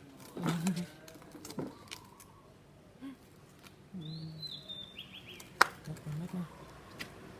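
Birds calling: short low dove-like coos about half a second, four and six seconds in, and a high stepped falling call about four seconds in. A single sharp click comes a little before six seconds.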